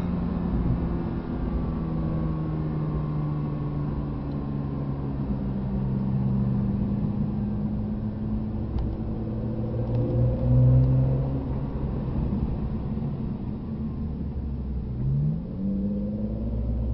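Porsche 911 GT3's flat-six engine heard from inside the cabin, its note slowly falling as the car slows from about 86 to 27 km/h, over a steady road rumble. About fifteen seconds in the revs rise quickly.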